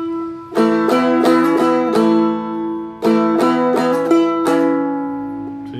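A Seagull Merlin four-string strumstick being played: full strums with single notes picked out on their own between them, the high D-string note struck by itself. The last chord, about four and a half seconds in, is left ringing and dies away.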